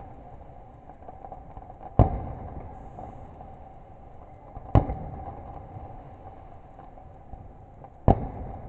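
Fireworks exploding: three loud bangs, about two, five and eight seconds in, each trailing off in a low rumbling echo. A faint steady hum lies underneath.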